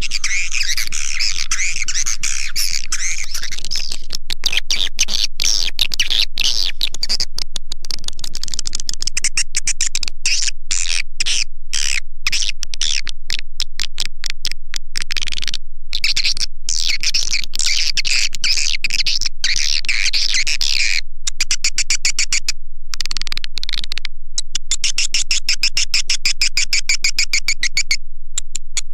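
Swiftlet lure call: a loud, continuous recording of edible-nest swiftlet twittering, a dense chatter of high chirps, chopped by many short dropouts into rapid pulses. It is a call sound made to be played through tweeters to draw swiftlets into a swiftlet house.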